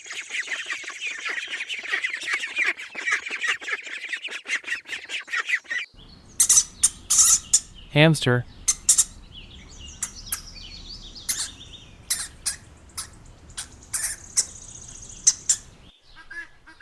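Ducklings peeping in a rapid, dense chatter, which cuts off abruptly about six seconds in. Then a hamster makes scattered sharp clicks and short thin high squeaks.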